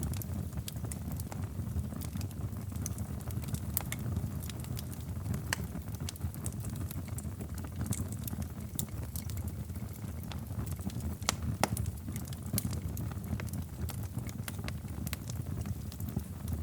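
Wood fire burning in a fireplace: a steady low rumble of flames with scattered sharp pops and crackles, a louder pop about eleven and a half seconds in.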